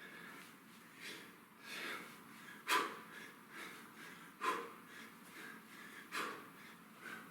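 A man's sharp, forceful exhales in rhythm with kettlebell reps, about one every one and a half to two seconds; the loudest comes about three seconds in.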